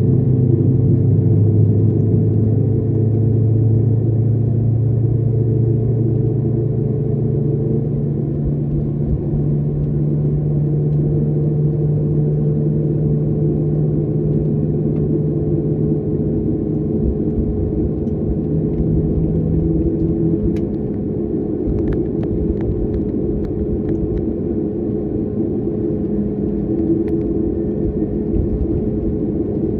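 Airliner cabin noise: the jet engines and airflow make a steady low rumble with a droning hum, and a few faint rattles come through about two-thirds of the way in.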